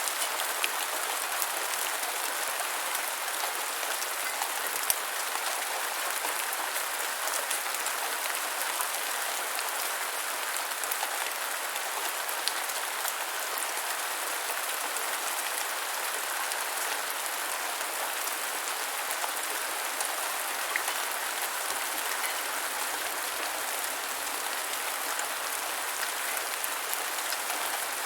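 Gentle, steady rainfall: an even hiss of rain with scattered single drops ticking sharply here and there.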